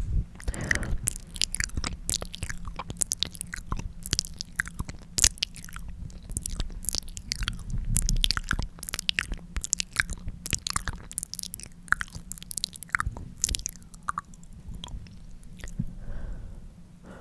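Lip-licking mouth sounds close to the microphone: a dense, irregular run of wet clicks and smacks, thinning out near the end.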